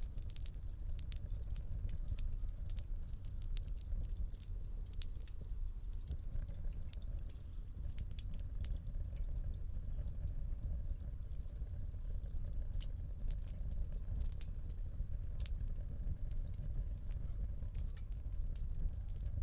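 Wood fire in a fireplace crackling, with frequent small sharp pops and snaps over a steady low rumble of the flames.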